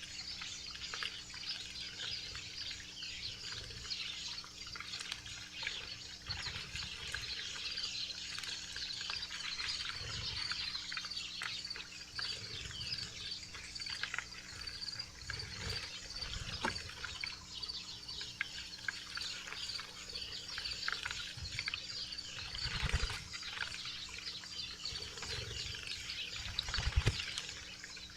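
Many small wild birds chirping and twittering, a dense run of short high calls that goes on without a break, with a few soft low thumps near the end.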